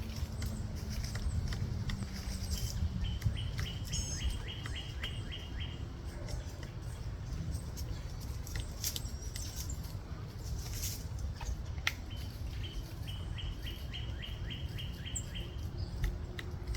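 Scattered, irregular taps of a pileated woodpecker pecking and chipping at wood. A bird calls twice over them, each call a run of evenly spaced notes lasting about three seconds.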